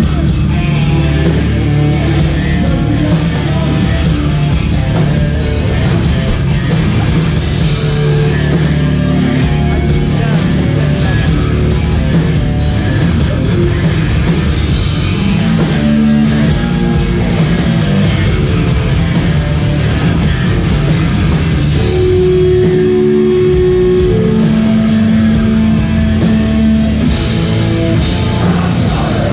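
Hardcore band playing live: loud, dense distorted electric guitars, bass and drums, with held guitar notes over a pounding low end.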